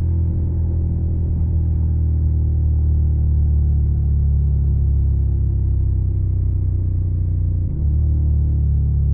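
Suzuki SV650's 645 cc V-twin running through a Yoshimura Alpha carbon exhaust, a steady low exhaust note with a brief dip about three quarters of the way in.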